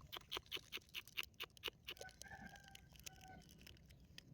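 A quick run of light clicks and rustles, several a second, over the first couple of seconds, then a faint, drawn-out animal call held at a steady pitch.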